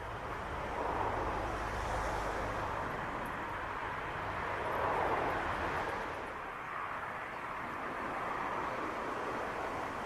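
Steady rushing road noise of a car on the move, swelling gently a couple of times, with a low rumble in the first few seconds that fades.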